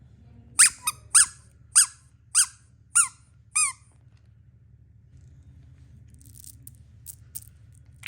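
Six short squeaks, each falling in pitch, coming a little under two a second, then faint clicks near the end.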